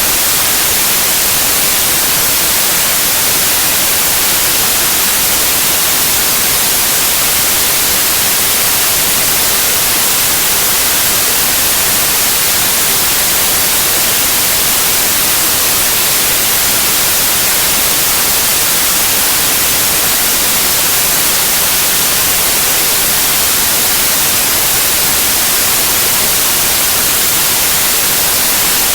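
Steady white noise: an even, unchanging hiss, loudest in the high frequencies, with no other sound.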